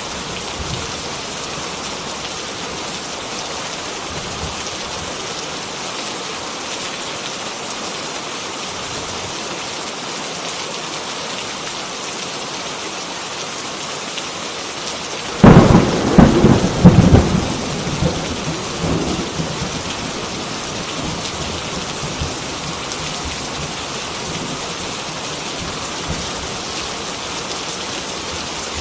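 Heavy rain falling steadily with an even hiss, broken about halfway through by a sudden loud thunderclap that rumbles for a few seconds and fades back into the rain.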